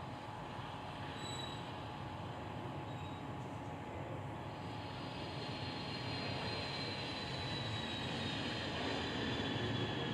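Truck on the move: steady road and running noise, slowly getting a little louder, with a faint high whine that slowly falls in pitch from about halfway through.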